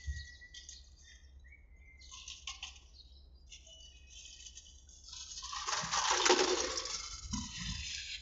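Birds chirping in short high calls, with a louder rushing noise that swells from about five seconds in and fades near the end.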